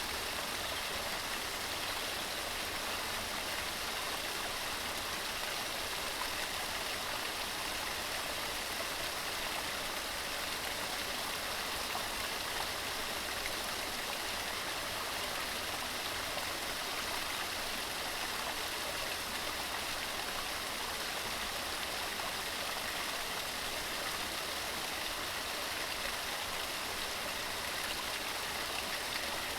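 Waterfall cascading over rocks: a steady, unbroken rush and hiss of falling water, weighted toward the higher pitches, with little low rumble.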